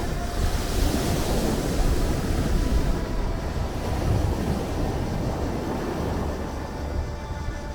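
Sea waves washing on the shore: a steady rush of surf over a deep low rumble, with the hissing wash dying down about three seconds in.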